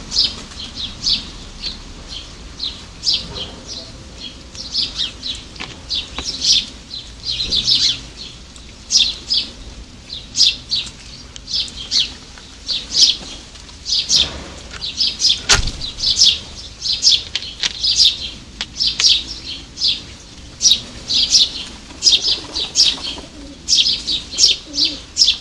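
Small garden birds chirping at a feeder: quick runs of short, high chirps that keep coming throughout, with a few sharp taps and one louder knock a little past halfway.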